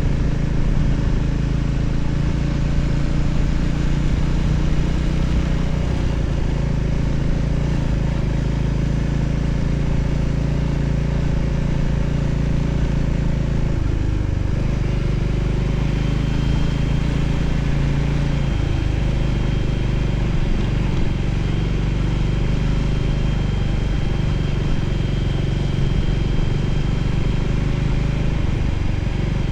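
Voge 300ACX motorcycle's single-cylinder engine running steadily on the move, with wind and road noise. The engine note drops and picks up again briefly twice, about halfway through and a few seconds later, and a thin high whine comes in about halfway and holds.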